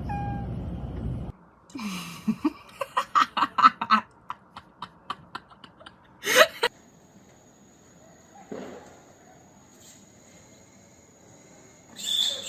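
A person laughing in quick repeated bursts for about two seconds, trailing off into fainter ones. Later comes one short, louder sound that falls in pitch.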